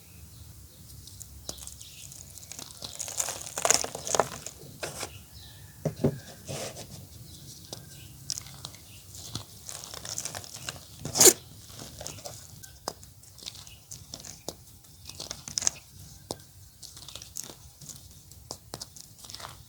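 Gym chalk crumbling: irregular crackles and snaps, denser around four seconds in, with the loudest single snap about eleven seconds in.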